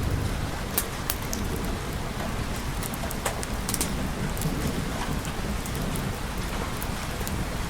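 Steady rain with a deep low rumble underneath and scattered sharp crackles and ticks.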